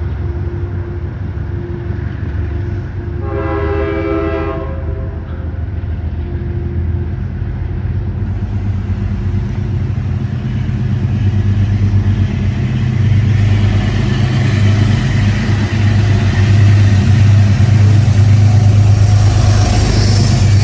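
A Metro-North train approaching and drawing close: a steady low rumble grows louder throughout, with one short horn blast about three seconds in and rising wheel-on-rail noise near the end.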